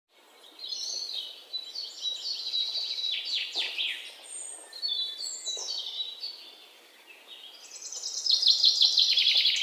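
Small songbirds chirping and twittering in quick high notes, with a fast trill of repeated notes growing louder near the end.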